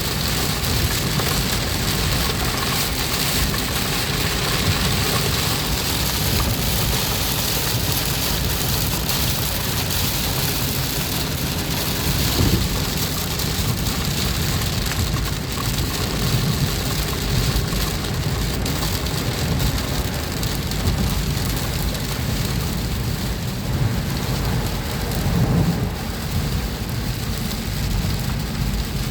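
Steady heavy rain falling, an even hiss with a low, uneven rumble underneath.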